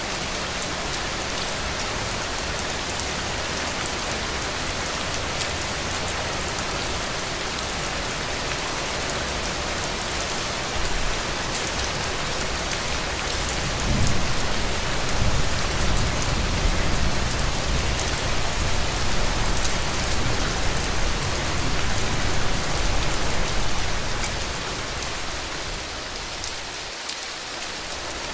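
Heavy rain falling steadily in a dense, even hiss. About halfway through, a deep low rumble swells up under the rain for roughly ten seconds, then fades.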